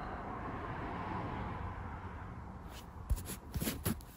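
Soft rustling handling noise that swells and fades, then a few light clicks or taps near the end.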